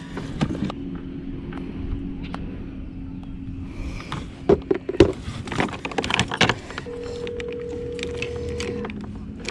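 Scattered clicks and knocks of handling gear in a kayak, over a faint steady low hum. Near the end comes one steady phone ringback tone, about two seconds long, heard through a phone's speaker just before the call is answered.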